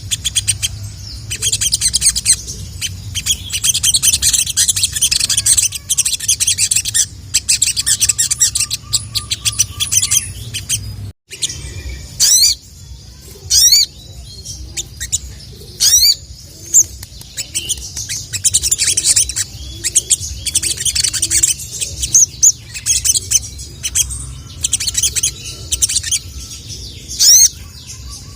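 Sogon (sogok ontong), a sunbird, singing loudly: rapid high trilled phrases for about ten seconds, then a sudden break, then sharp high sweeping 'cuit cuit' calls alternating with more trills.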